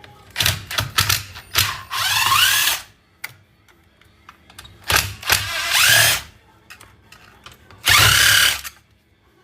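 Power drill backing out screws in several bursts: quick triggered pulses first, then three runs of about a second, the motor's whine rising in pitch as it spins up each time.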